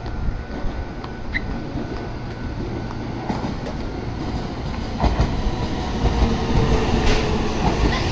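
Meitetsu limited express train coming in alongside the platform. Its rumble and wheel noise grow louder from about five seconds in, with a faint, slowly falling whine near the end.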